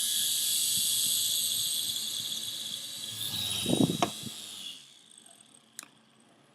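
Toy RC helicopter's small electric motor and rotor whining at a high pitch, fading away about five seconds in, with a brief knocking clatter just before four seconds.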